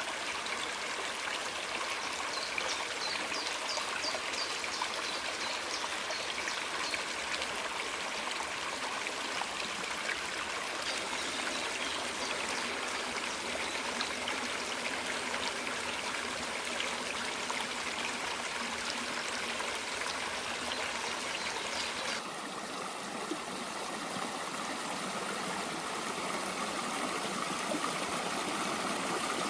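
Steady running water, like a small forest stream trickling over rocks. The sound changes abruptly about three-quarters of the way through and loses much of its high hiss.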